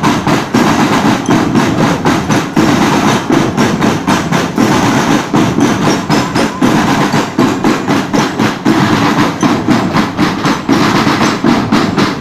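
Drumband playing: marching drums beating a fast, steady cadence of many close-spaced strokes.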